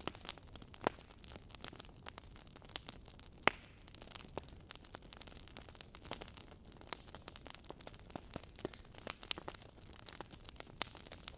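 Burning logs crackling in a fireplace: irregular sharp pops and snaps over a faint steady hiss, with a louder pop about three and a half seconds in.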